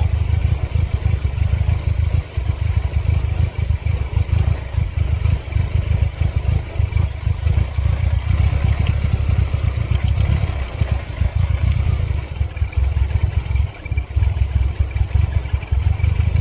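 1999 Mercedes-Benz C230 Kompressor's supercharged four-cylinder engine idling unevenly, its loudness wavering with brief dips. The engine has a fault that sets a flashing check engine light.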